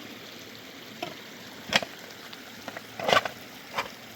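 Steady hiss of rain and running water, broken by four short sharp knocks or splashes, the loudest two near the middle and about three seconds in.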